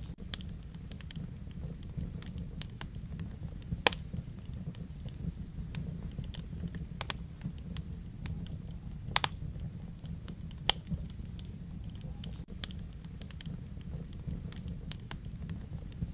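Wood fire crackling in a fireplace: a steady low rumble of burning with irregular sharp snaps and pops, a few of them much louder than the rest.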